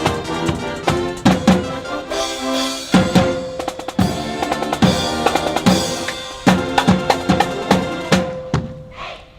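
Marching band playing: brass over a beat of bass and snare drums, the music dying away near the end.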